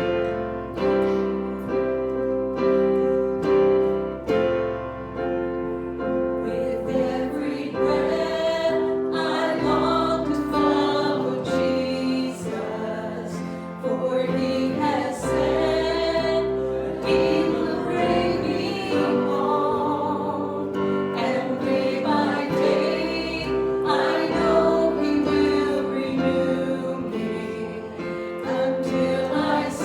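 Congregational hymn singing with keyboard accompaniment: sustained chords at first, with voices joining about eight seconds in.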